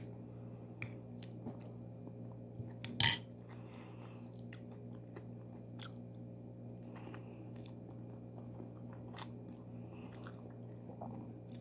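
Chewing and mouth sounds of a person eating rice mixed with yogurt and cucumber, with scattered small clicks and one louder clatter about three seconds in, over a steady low hum.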